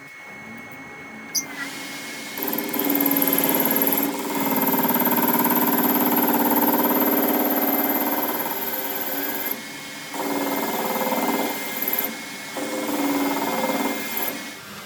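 Electric power tool motor running in several bursts. It starts a couple of seconds in, runs for about seven seconds, then is stopped and restarted twice with short pauses.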